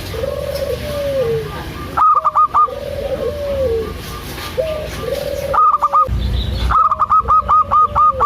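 Zebra dove (perkutut) singing: each phrase is a quick run of short, clipped high notes followed by lower, rolling coos, repeated every few seconds, with a longer run of quick notes near the end. A steady low hum runs underneath.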